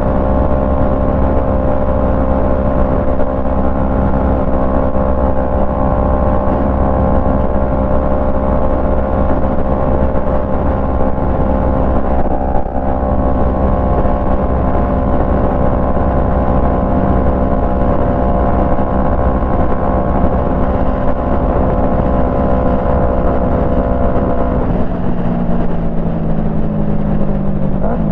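Yamaha MT-03's parallel-twin engine through a full Jeskap exhaust, riding at a steady speed with an even note, then falling in pitch in steps near the end as the bike slows. Wind rumbles under it.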